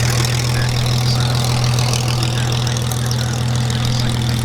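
BAC Strikemaster jet trainers' Rolls-Royce Viper turbojets running in a display pass, a steady engine noise over a constant low hum.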